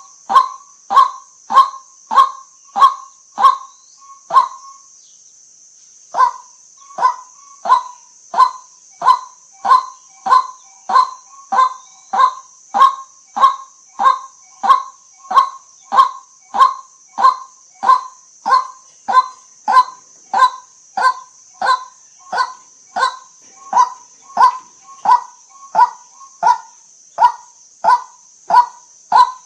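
White-breasted waterhen calling: a steady run of short, loud 'kwak' notes, about three every two seconds, with a pause of about a second and a half near five seconds in.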